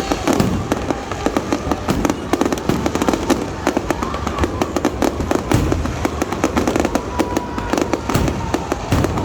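Fireworks display going off: a dense, continuous run of bangs and crackles, many bursts overlapping one another.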